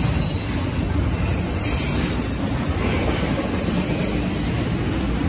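Double-stack intermodal container freight train passing, its wheels on the rails making a steady, continuous noise.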